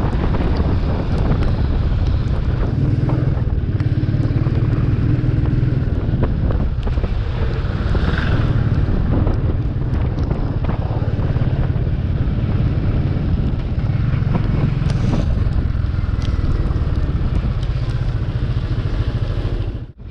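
Royal Enfield 350 single-cylinder motorcycle engine running steadily while riding, with wind buffeting the helmet-mounted microphone. The sound drops out briefly near the end.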